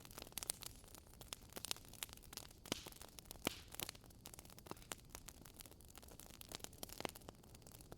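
Wood fire burning in a fireplace, crackling and popping: many sharp snaps at irregular intervals over a faint hiss.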